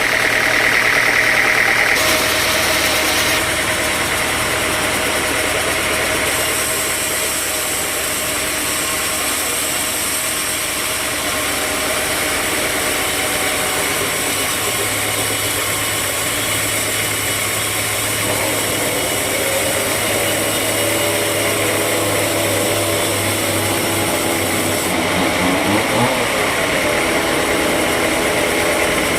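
Sawmill machinery running steadily, with its sound shifting abruptly a few times.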